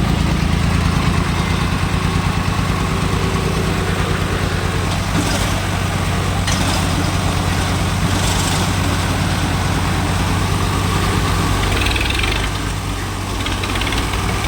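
Diesel tractor engine running steadily, easing off slightly about twelve seconds in.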